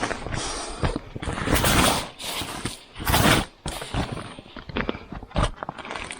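Hand work noises: two long scraping crunches, about one and a half and three seconds in, with scattered knocks and clicks between them.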